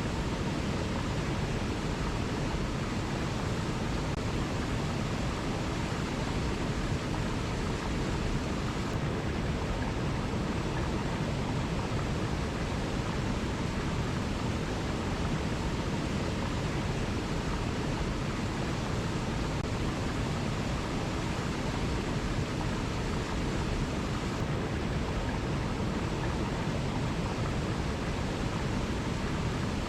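Waterfall: a steady, even noise of falling water with no breaks or changes.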